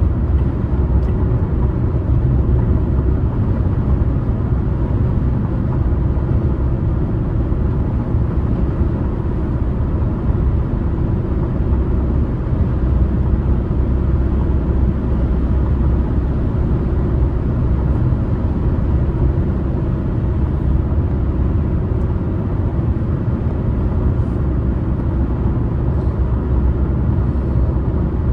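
A car driving: steady road and tyre noise, mostly a low rumble, with no change in engine speed.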